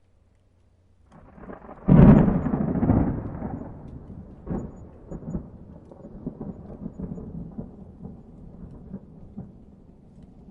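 A thunderclap: a low rumble begins about a second in, breaks into a loud crack near two seconds, then rolls on and slowly fades with scattered crackles.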